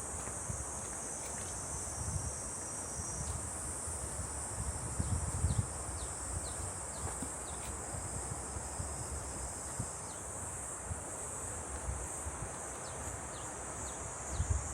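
A steady, high-pitched chorus of summer cicadas buzzing in the trees, with a few short falling chirps. Low thumps, like footsteps or handling on the microphone, come about five seconds in and again near the end.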